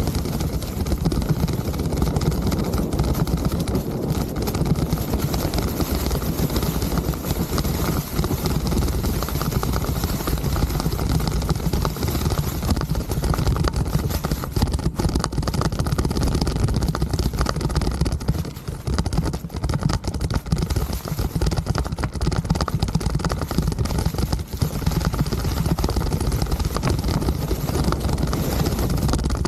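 Ride noise from a mountain bike on a trail: steady wind rumble on the microphone, with the bike clattering and rattling over the ground.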